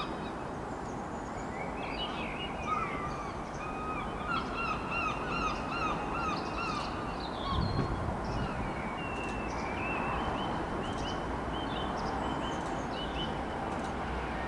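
Small birds singing, with quick runs of repeated chirps and trills, over a steady outdoor rush of background noise.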